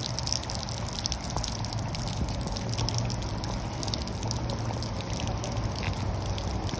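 Rain falling with water dripping and pouring: a steady wash of noise with many small drip ticks and a low steady rumble under it.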